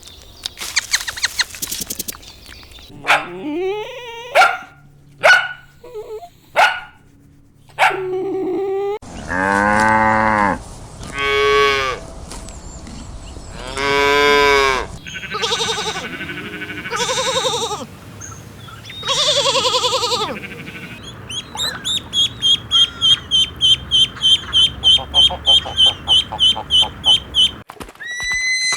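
A run of different farm animal calls, one clip after another: three long, low moos from cattle in the middle, other animal calls before and after them, and near the end a fast series of short, high-pitched calls, about three a second.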